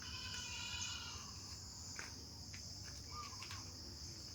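Insects, crickets or similar, trilling in a steady high chorus, with a few faint short chirps over it.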